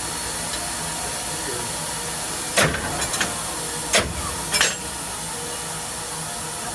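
Steady hiss, most likely steam escaping from the steam locomotive, broken by a few sharp metallic clanks about midway.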